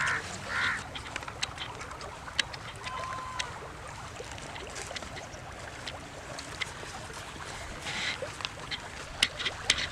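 Ducks quacking a few times in the first second and once more about eight seconds in, over faint water noise and scattered small clicks.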